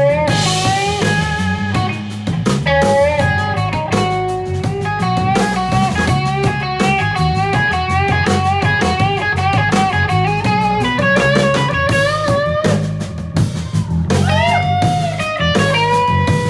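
Live blues band playing an instrumental passage: a lead melody with bent notes over steady bass and a drum kit, with guitar prominent.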